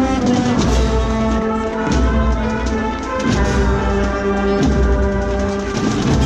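Holy Week procession brass band playing a slow march: held brass chords over deep drum beats that come every couple of seconds.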